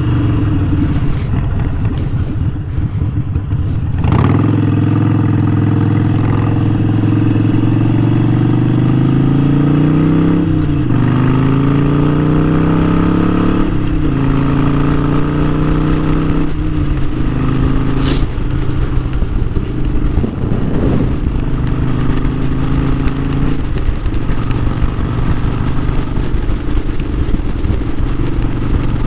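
Harley-Davidson Sportster 1200's air-cooled V-twin running on the road, accelerating through the gears: the engine note climbs in pitch and drops sharply at each upshift, three times in the first half, then holds steady while cruising.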